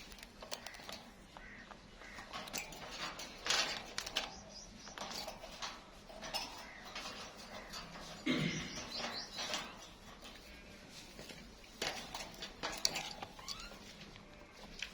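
Pet plum-headed parakeet in its cage: scattered clicks and taps against metal, with a few brief chirps.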